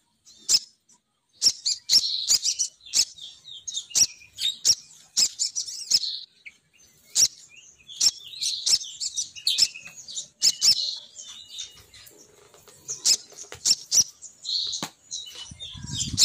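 Lure call of a female sogon bird: bursts of high chirps and twitters mixed with sharp clicks, repeating throughout. A low thump near the end.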